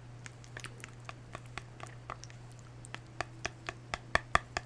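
A spoon stirring yogurt in its cup, clicking against the sides about four to five times a second, the clicks getting louder near the end.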